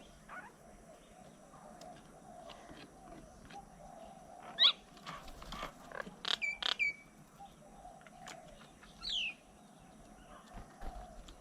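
Birds calling: one loud sharp call about halfway through, a quick run of three or four calls soon after, and a single call sliding down in pitch near the end, over a faint steady background.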